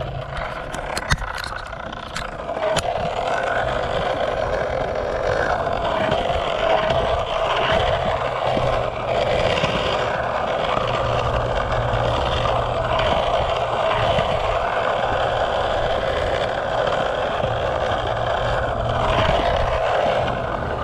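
Skateboard wheels rolling on concrete, a steady rough rumble, after a few sharp clacks of the board in the first few seconds.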